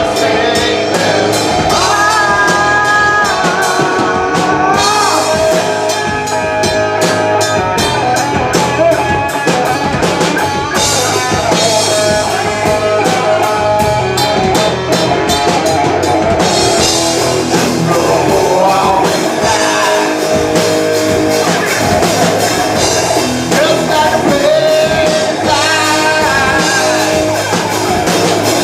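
Live rock band playing a song with singing, electric guitar and drum kit, heard loud through a phone-style recording.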